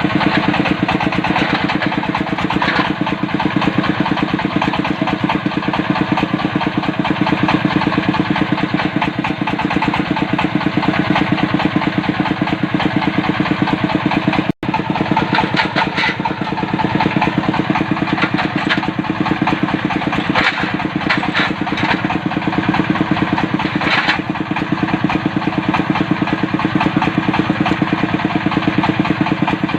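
Diesel engine of a well-drilling rig running steadily with a rapid, even firing beat. The sound breaks off for an instant about halfway through.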